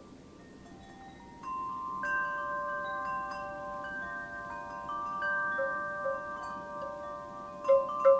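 Wind chimes ringing in a breeze: a few soft strikes at first, then from about a second and a half in a run of overlapping tones that ring on, with two louder strikes near the end.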